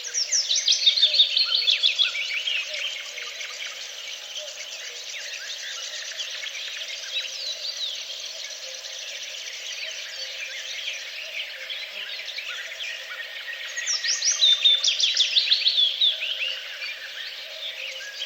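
Birdsong: a chorus of songbirds chirping, with one bird singing a loud phrase of rapid notes falling in pitch, twice, about thirteen seconds apart.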